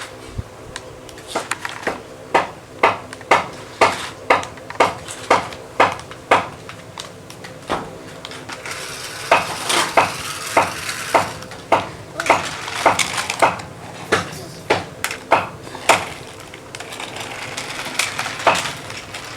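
A string of sharp knocks, about two a second, with stretches of hiss about halfway through and again near the end.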